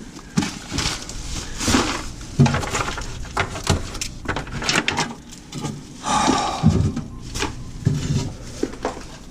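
Irregular knocks and clatter of food containers and jars being handled while emptying out a refrigerator.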